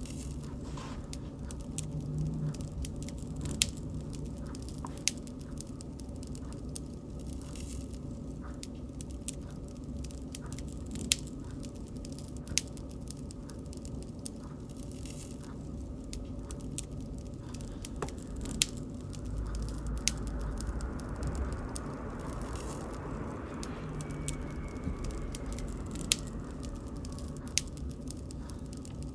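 Wood bonfire burning: a steady low rush with sharp crackles and pops every second or two, and a faint whistle that falls slightly in pitch about two-thirds of the way through.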